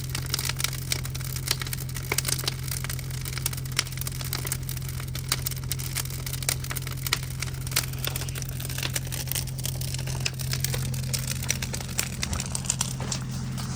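Big bonfire burning, the wood crackling and popping irregularly over a steady low hum.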